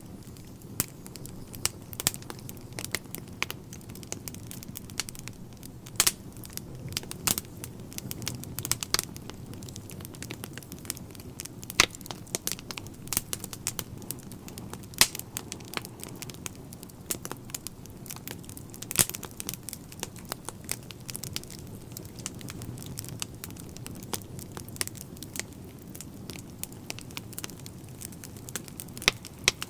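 Wood fire in a fireplace crackling: irregular sharp pops and snaps, a few much louder than the rest, over a low steady rumble.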